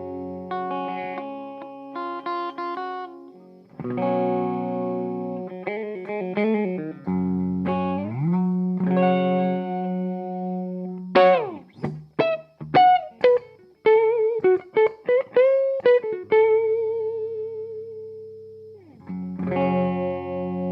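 Electric guitar played through a compact hybrid power amp, a single EF95 mini-pentode tube stage driving a class D output, into a speaker cabinet. Ringing chords give way about eleven seconds in to a lead run of single notes with string bends. This ends on a held note with vibrato, and chords come back near the end.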